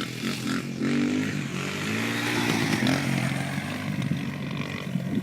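Motocross dirt bike engine revving, its pitch rising and falling with the throttle as it is ridden up to a jump.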